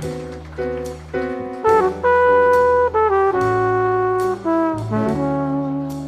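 Flugelhorn playing a slow jazz melody of held, bending notes over piano, bass and drums with cymbal strikes.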